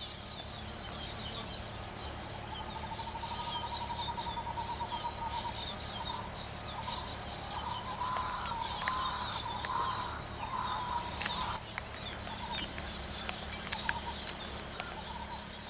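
Birds calling: a run of repeated notes rising in pitch in the first few seconds, then a series of short calls in the middle. Underneath are many faint high chirps and a steady low hum.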